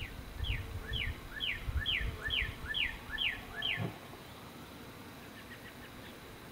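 A songbird singing a run of about nine clear whistled notes, each falling in pitch, about two a second, stopping about four seconds in. Low rumble underneath while it sings.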